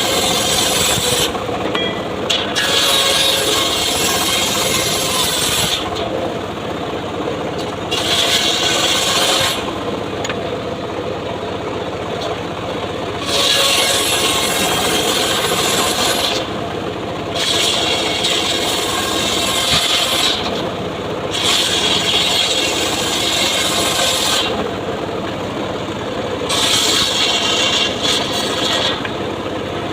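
Homemade circular saw cutting mahogany, the blade biting into the wood again and again: about seven cuts, each a few seconds long, with the saw running freely between them.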